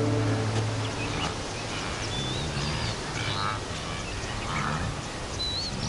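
Wild birds calling in dry bush: a few short, harsh, duck-like calls and some thin whistled notes. A music cue fades out in the first second.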